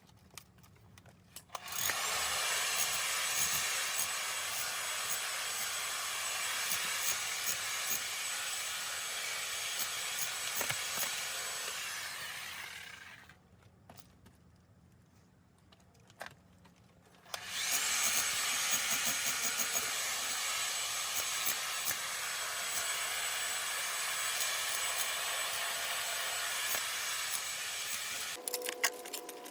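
A power tool runs twice, each time for about eleven seconds, with a steady high whine over a rough grinding or cutting noise, spinning up at the start of each run and winding down at its end.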